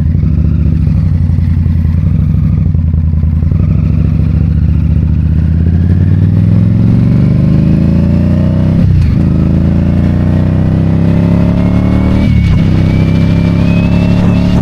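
2022 Indian Scout Bobber's V-twin engine accelerating under way. Its pitch climbs steadily and drops off sharply twice, about nine and twelve seconds in, at each upshift, then climbs again.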